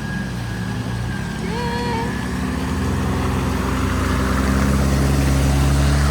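Four-wheel-drive vehicle engine running at steady revs, getting louder about halfway through, with a short pitched voice-like sound near the start.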